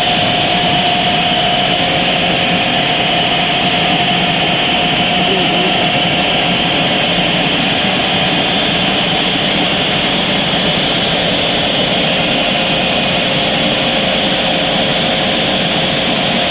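Automatic car wash air-dryer blowers running with a steady, loud rush and a hum.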